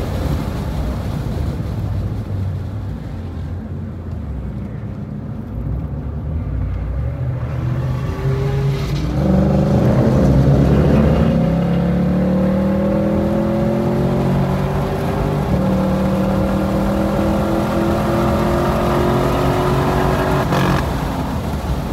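2020 Shelby GT500's supercharged V8, heard from inside the car at speed on a race track. The engine is quiet off the throttle while the car slows for a corner, then pulls hard from about nine seconds in, its pitch rising steadily through the gears with upshifts about fifteen and twenty seconds in.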